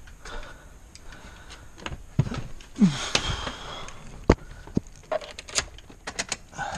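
Irregular clicks and knocks of things being handled, with one sharp knock about four seconds in and a brief creak-like sliding sound just before it.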